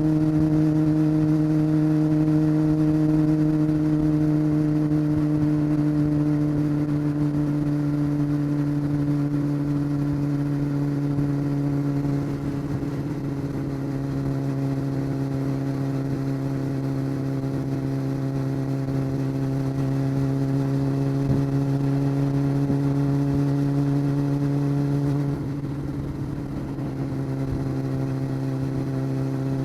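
Honda CBR600 F4 inline-four motorcycle engine running at steady cruising revs, its pitch easing slowly down. It falls briefly about twelve seconds in and drops again a few seconds before the end.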